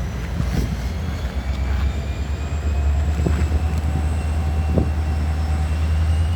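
Diesel freight locomotive engine running with a steady low rumble that grows a little louder, as the locomotive starts shoving back. Faint thin high squeals and a few light knocks sound over it.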